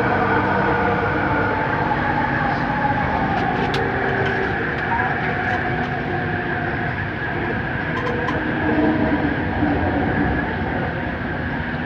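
Bombardier Innovia Metro 300 light-rail train running at speed, heard from inside the car: a steady rumble with several held tones. A few short sharp clicks come through, one about four seconds in and two about eight seconds in.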